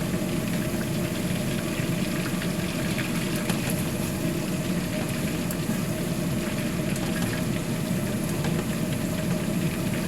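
Battered beef deep-frying in a pot of hot oil: a steady sizzle with faint crackles over a constant low hum.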